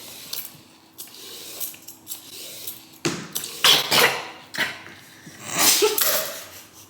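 A person coughing hard in a few bursts, the loudest about three seconds in and again near the end, the sort of fit that comes from a piece of raw carrot caught in the throat.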